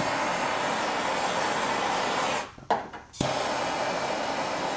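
Handheld torch burning with a steady rushing hiss while heating the panel for lead work. It lights with a click, shuts off about two and a half seconds in, and relights with another click under a second later.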